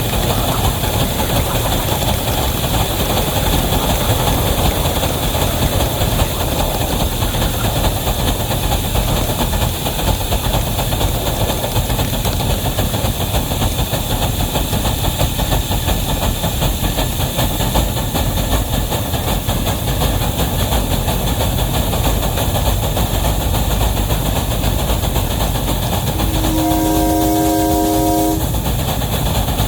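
A heavy train rolling by with a steady rumble and wheel clatter. Near the end the locomotive sounds one short multi-note chime, and starts a second just as the sound ends.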